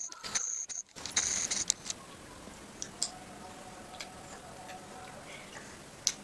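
Scattered faint clicks and ticks, with a short hiss about a second in, from children eating ice cream cones.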